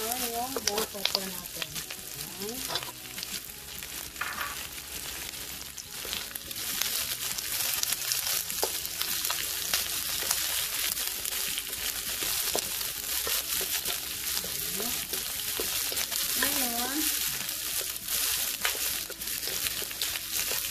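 Sliced onion and sweet peppers sautéing in oil in a nonstick frying pan: a steady sizzle with light taps and scrapes of a wooden slotted spatula stirring them. The sizzle grows a little louder about six seconds in.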